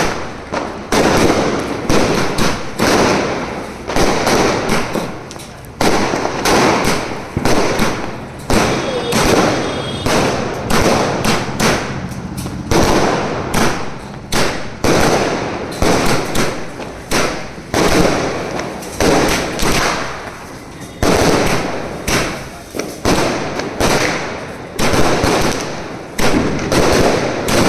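Diwali firecrackers going off one after another, loud sharp bangs about one or two a second, each trailing off before the next.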